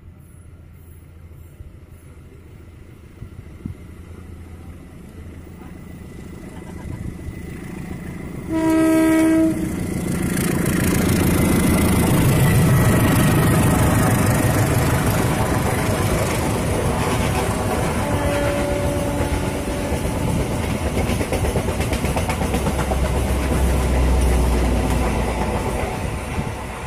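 Diesel-hauled passenger train approaching and passing close by, its rumble building steadily. About nine seconds in comes one horn blast of about a second, then loud engine and wheel noise as the locomotive and coaches go by, with a deeper low hum near the end.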